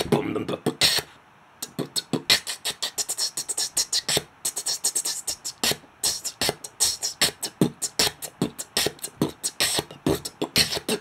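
Beatboxed beat built on inward 'kissip' sounds: rapid, sharp sucked-in hisses and clicks imitating an open-and-closing hi-hat, in a steady quick rhythm with a short break about a second in.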